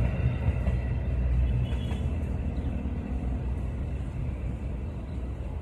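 Low rumble of a stainless-steel passenger train running on the rails, slowly fading as its last car moves away.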